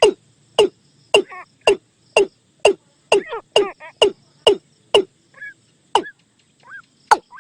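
Watercock calling: a regular series of sharp notes that slide steeply down in pitch, about two a second, with softer warbling notes between them.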